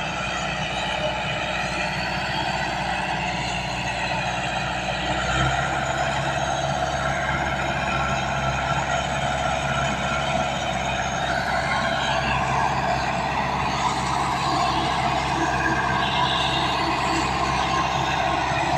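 Tractor diesel engine running steadily. It gets a little louder and heavier about five seconds in, as if taking load or being throttled up.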